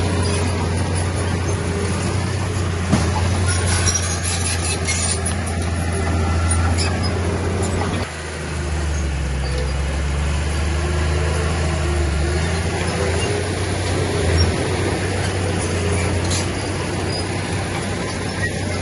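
Heavy diesel earthmoving machinery running steadily, with scattered metallic clanks in the first half. The engine note drops about eight seconds in.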